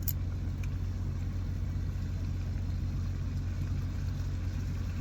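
Steady low hum of an idling truck engine heard inside the cab, with a faint click right at the start.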